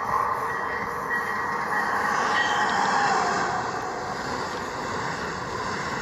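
A train passing close by at speed: a steady rushing noise with a faint whine, swelling a little two to three seconds in.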